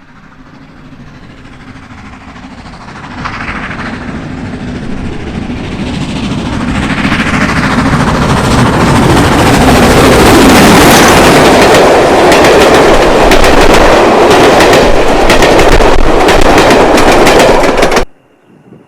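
Steam train approaching and passing close by: it grows steadily louder into a loud, rapid clatter of wheels and exhaust, then cuts off suddenly near the end.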